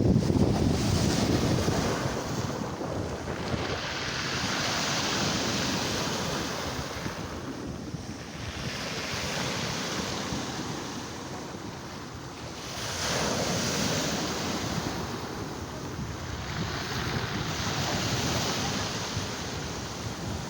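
Black Sea surf: waves breaking and washing on the shore, the noise swelling and fading every few seconds. Wind buffets the microphone, most heavily near the start.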